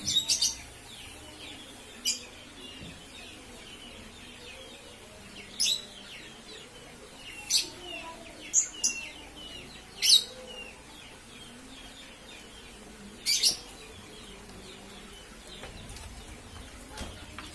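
Birds chirping: about ten short, sharp, high calls at irregular gaps, over a steady background of fainter twittering.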